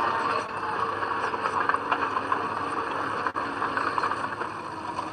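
Heavy earthmoving machinery running with a steady, noisy drone and a few faint clanks.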